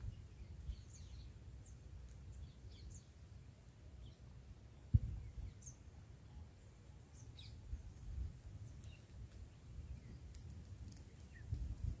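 Birds chirping faintly and sparsely in short, high notes over a low rumble of wind on the microphone, with a single thump about five seconds in.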